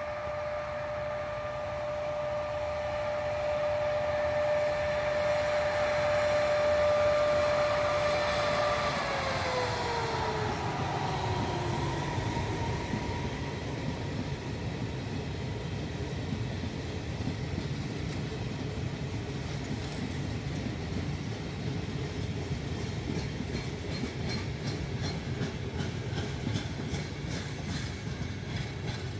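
Electric regional passenger train passing close by: a steady whine from the train that glides down in pitch about nine seconds in, over the rumble of the coaches. In the second half the wheels beat out a fast clickety-clack over the rail joints.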